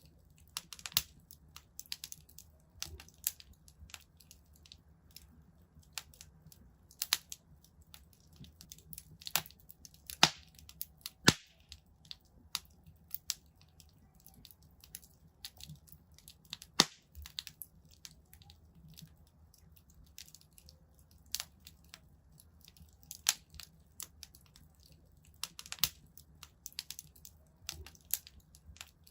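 Wood fire in a fireplace crackling, with irregular sharp pops and snaps over a faint low rumble; a few pops stand out louder, about ten, eleven and seventeen seconds in.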